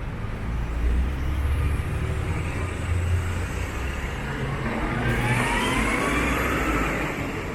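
Downtown street traffic: a steady low rumble of motor vehicles, with one vehicle's whine rising in pitch as it accelerates, starting about five seconds in.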